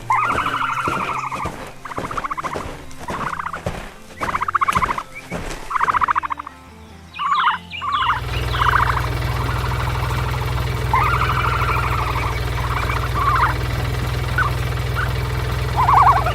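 Farmyard animal calls, short pulsed cries like poultry, repeating through the first half. About halfway in, a steady low machine hum starts and runs on, with scattered short bird chirps over it.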